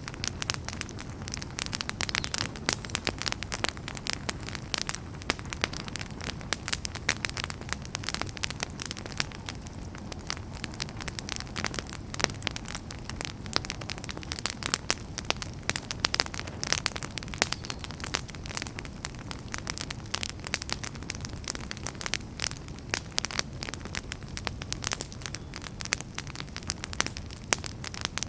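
Wood campfire burning steadily, with dense, irregular crackling and popping of the firewood over a low rumble of the flames.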